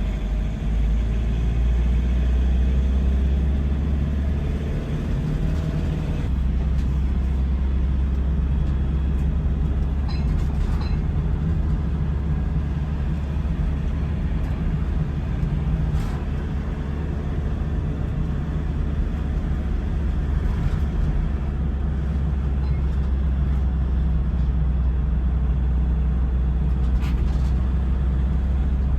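An engine running steadily with a deep low hum, its pitch shifting for the first few seconds before settling, with a few faint clicks.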